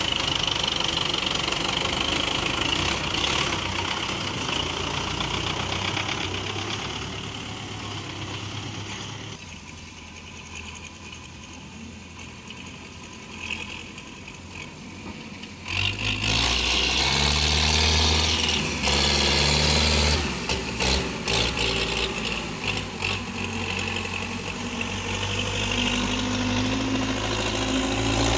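Tractor engine running. It falls quieter for several seconds, then comes back loud about sixteen seconds in, its pitch stepping up and down as it revs.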